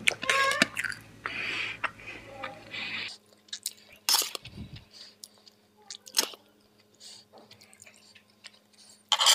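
Close-miked chewing and wet mouth sounds of someone eating egg biryani, with scattered sharp clicks of a spoon against the plate. The eating sounds are busiest for the first three seconds, then thin to occasional clicks, with a loud short burst just before the end.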